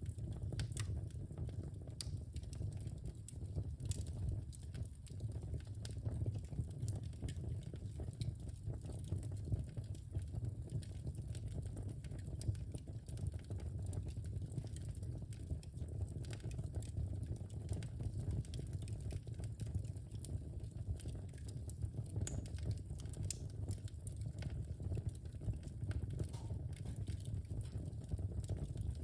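Wood fire in a fireplace crackling: irregular small pops and snaps over a steady low rumble of burning.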